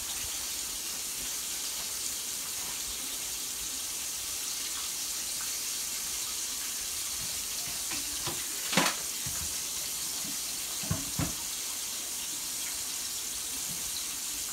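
Steady hiss of cooking on the stove: turkey chops frying in oil in a skillet, with a lidded pot of water at the boil. A few sharp pops stand out, the loudest about nine seconds in.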